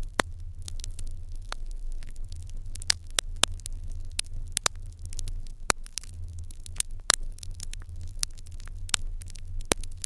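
Wood fire in an irori hearth crackling, with frequent sharp pops of varying loudness at irregular intervals over a steady low hum.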